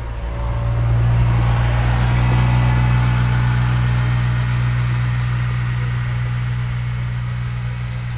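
Combine harvester running close by: a steady, deep engine hum that swells about a second in, then slowly eases off.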